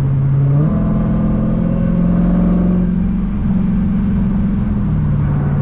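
Dodge Hellcat's supercharged 6.2-litre HEMI V8 running under way. Its note steps up in pitch a little under a second in as throttle is applied, holds there, then drops back near the end.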